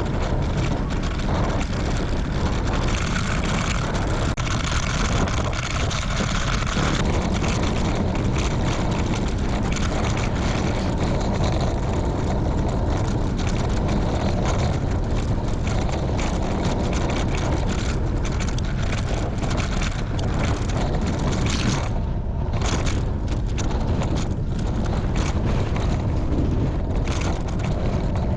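Strong wind buffeting the microphone of a bicycle-mounted camera while riding into a strong headwind: a loud, steady low rumble with hiss.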